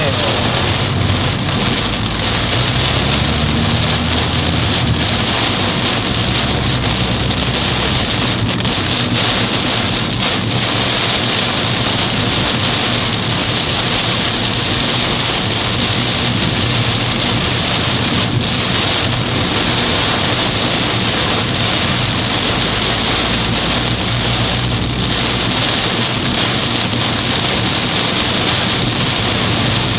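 Torrential downpour pouring onto a moving car, a dense, steady hiss of rain.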